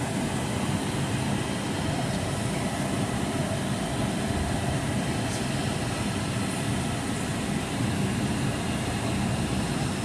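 Steady low rumble inside the passenger cabin of a Boeing 757-200 on the ground, with its engines and air-conditioning running.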